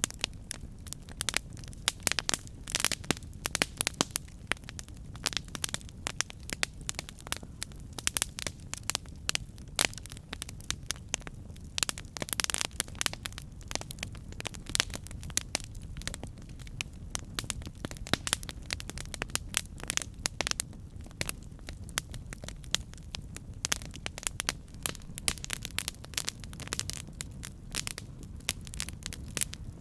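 Wood campfire burning, with many sharp crackles and pops over a steady low rumble of the flames.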